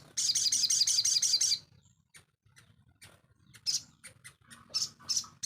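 A sogon songbird singing: a rapid, high trill of about seven notes a second lasting about a second and a half, then after a pause a few short, sharp chirps.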